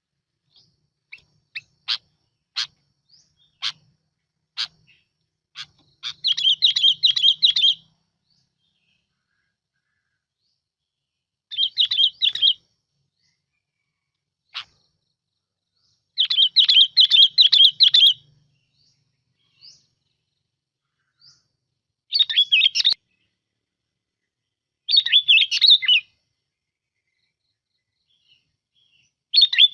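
Bulbul (the bird called bông lau in Vietnam) singing: a few single sharp chirps, then bubbly warbling phrases of one to two seconds, repeated every few seconds.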